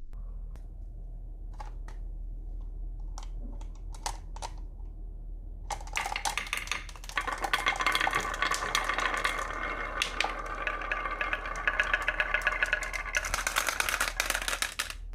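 Marbles rolling and clattering down a wooden marble run track: a few separate clicks at first, then a dense, rapid rattle of clicks from about six seconds in that cuts off suddenly at the end.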